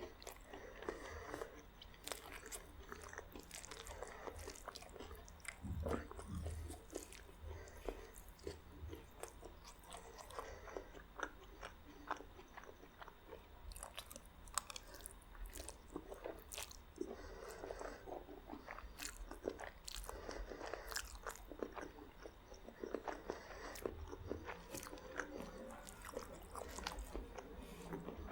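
A person chewing and biting meat spaghetti and garlic bread close to the microphone: an irregular run of short clicks and crackles.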